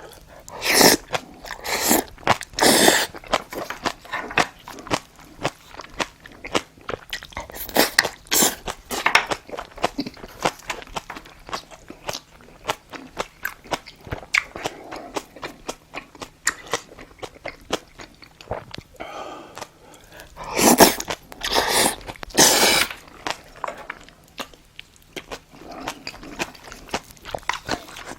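Close-miked chewing and biting of spicy braised monkfish (agujjim), with a quick run of wet smacks and crunches. A few louder noisy bursts come near the start, around eight seconds in and about three quarters of the way through.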